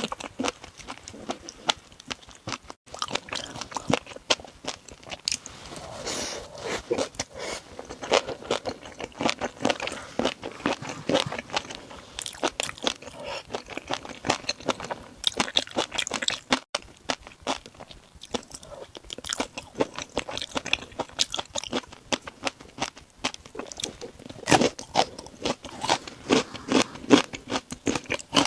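A person chewing and crunching a crunchy shrimp dish close to the microphone, with rapid, irregular crunches throughout and a run of louder bites near the end.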